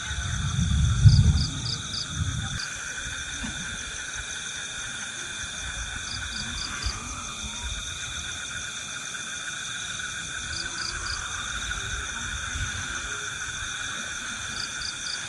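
Steady forest insect chorus holding several high, even tones. A short chirp of four or five quick pulses repeats about every four seconds. In the first two seconds there is a low rumble, loudest about a second in, like wind or handling on the microphone.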